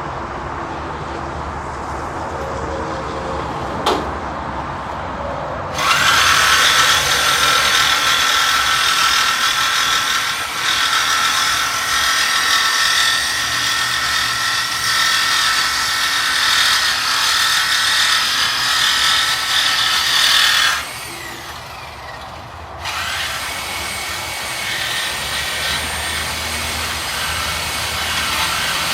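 A power cutting tool cuts through the exhaust pipe to take off a Chrysler 300 Hemi's second muffler, in a muffler delete. It runs with a loud, steady, high-pitched cutting noise, breaks off about two-thirds of the way in, and starts cutting again a couple of seconds later.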